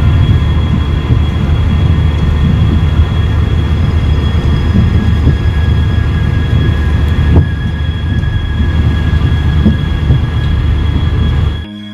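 Train running on the rails: a loud, steady rumble with a thin, high, steady squeal over it and a single sharp clack about seven seconds in. The train sound cuts off abruptly near the end.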